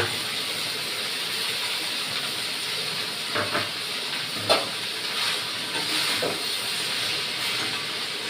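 Leafy greens sizzling in hot oil in a kadai, a steady frying hiss, with a few short knocks partway through.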